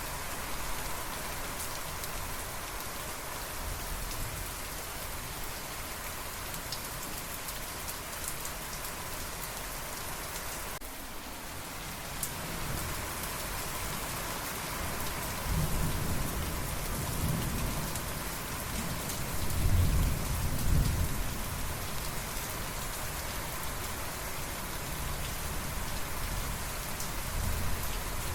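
Steady rain falling, with a low rumble of thunder rolling in about halfway through and peaking about twenty seconds in. The rain briefly drops away about eleven seconds in.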